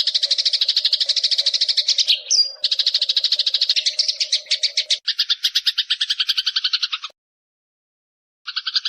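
Eurasian tree sparrow giving a long, rapid chattering call: a fast run of harsh notes, many a second. A short whistled note breaks in about two seconds in. About five seconds in the chatter turns lower and coarser. It cuts off abruptly about seven seconds in and starts again just before the end.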